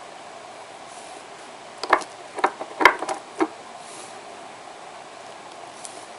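A handful of light clicks and taps from small hard nail-art tools and polish bottles being handled, bunched together between about two and three and a half seconds in, over a faint steady hiss.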